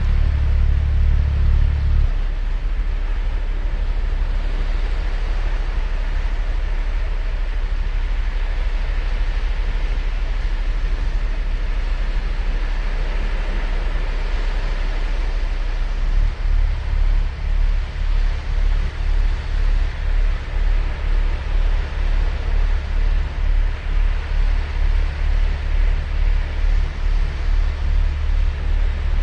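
Ocean surf washing onto a sandy beach as a steady rushing hiss, over a heavy low rumble that eases a couple of seconds in and comes back strongly past the middle, pulsing quickly and evenly.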